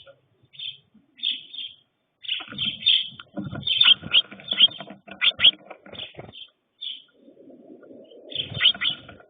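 Birds chirping in quick clusters of short, high calls, with lower, rougher calls mixed in from a couple of seconds in and again near the end.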